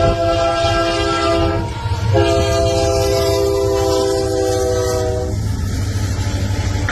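Locomotive air horn sounding a multi-note chord in two long blasts, the first ending under two seconds in and the second, after a short break, lasting about three seconds. A steady low train rumble runs underneath and carries on after the horn stops.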